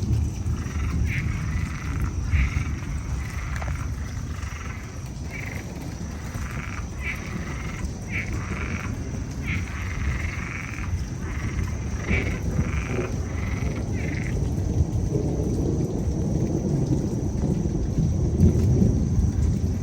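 Frogs calling in a chorus of repeated short calls, which die away about fourteen seconds in, over a steady low rumble of rain and thunder that swells near the end.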